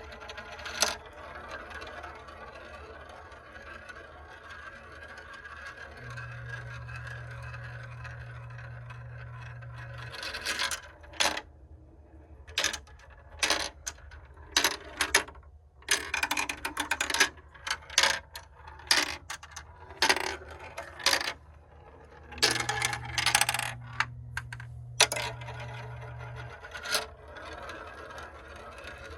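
Marbles running down a Kumikumi Slope plastic marble run: a steady rolling sound, then a long stretch of rapid clicks and clacks as marbles drop and knock against the track pieces, then rolling again near the end.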